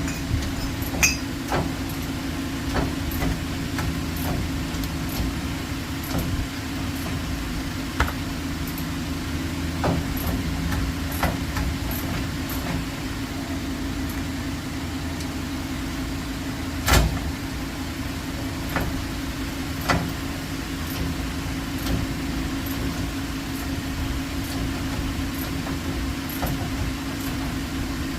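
A steady mechanical hum runs underneath scattered sharp clicks and knocks of hand tools on metal parts during brake work. The strongest knock comes about two-thirds of the way through.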